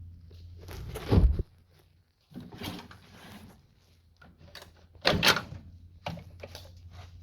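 A few heavy knocks and thuds of something being handled, the loudest about a second in and another about five seconds in, with a short rattle between them.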